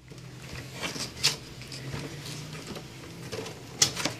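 Scissors cutting open plastic packaging, with rustling handling noise and a few sharp clicks and snips, the loudest about a second in and again near the end.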